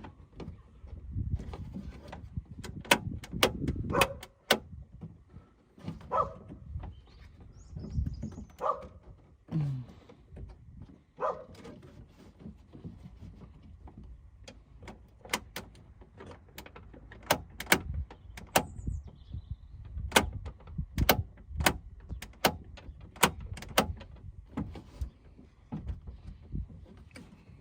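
Many sharp clicks and knocks from a BMW E36's door-opening mechanism and panel being worked on by hand, with a few short scrapes in the first half and the clicks coming thicker in the second half. A loose part of the mechanism that keeps the door from opening is being refitted.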